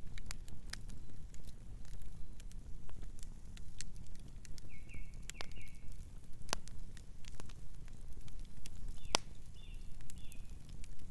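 Wood fire burning with a steady low rumble and irregular sharp crackles and pops. A bird chirps faintly in short groups of notes twice, about halfway through and near the end.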